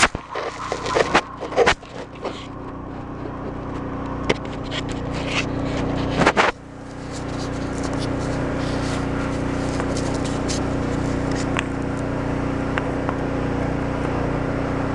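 An engine idling steadily, with a few scrapes and knocks in the first two seconds and a louder scrape at about six and a half seconds.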